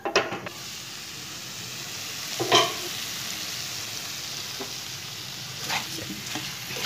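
Sliced potatoes, onions and tomatoes sizzling in oil in a frying pan, with a spatula scraping and knocking against the pan a few times as they are stirred; the loudest scrape comes about two and a half seconds in.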